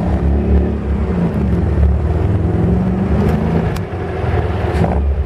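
Bugatti Type 35's engine running as the car is driven slowly, a steady low drone whose pitch drifts up and down with the throttle.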